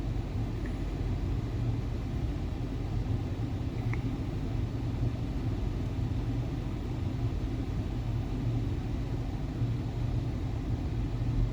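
Steady low rumble of a road vehicle's engine, even throughout with no distinct events.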